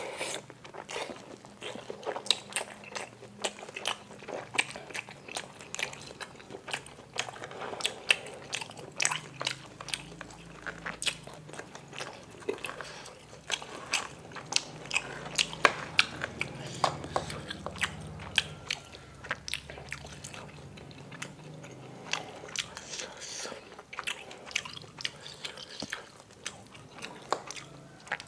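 Close-miked chewing of bakso meatballs in spicy sauce: wet mouth sounds with many irregular sharp clicks and smacks.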